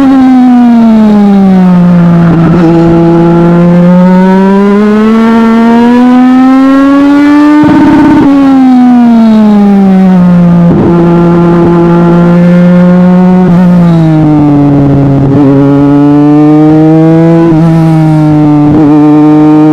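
Legend race car's Yamaha motorcycle four-cylinder engine at racing speed, its pitch climbing steadily under acceleration and then falling off sharply as the driver lifts, several times over.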